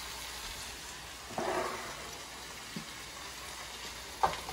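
Pork pieces, onions and garlic frying in oil in a pot, a steady faint sizzle, with a brief noise about a second and a half in and a sharp click just past four seconds.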